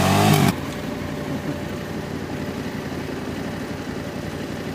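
Motorcycle engine revving loudly while riders push the bike out of mud, cut off abruptly about half a second in. After that comes a quieter, steady motorcycle engine rumble.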